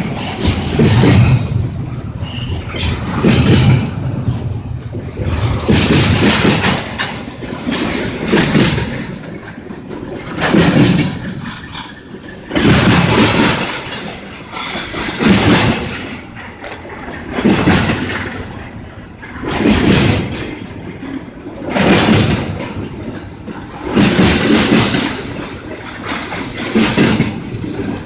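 A train passing, its noise swelling and fading in a steady rhythm about every two seconds.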